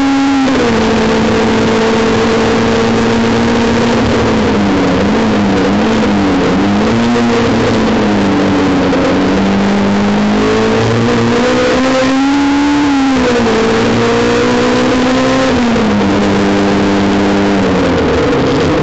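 Honda S2000's four-cylinder engine held high in the revs at racing speed, heard from inside the car. Its note stays high, wobbles and dips in the middle, and rises then drops about two-thirds through. It steps down again near the end, with a steady rush of wind and tyre noise underneath.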